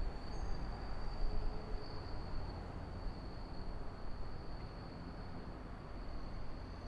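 A low rumble of distant vehicles slowly fading, with an insect's steady, high-pitched trill running on above it.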